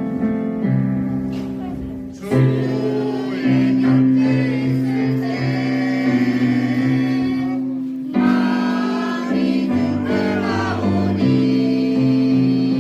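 Church choir singing a hymn in held, slow phrases over instrumental accompaniment, with a short break between phrases about two seconds in and again about eight seconds in.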